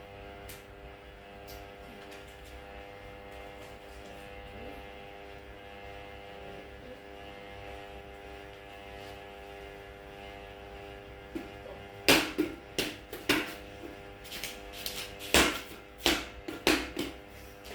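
Panasonic F-M14C8 ceiling fan's motor humming steadily, a fan running noisy and slow. About twelve seconds in, a string of sharp knocks and clicks starts.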